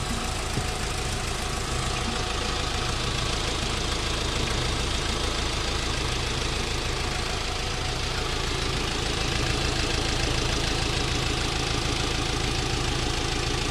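VW Polo Vivo engine idling steadily, freshly restarted after an oil change and coolant refill. The owner thinks the running sounded like a bit of a misfire.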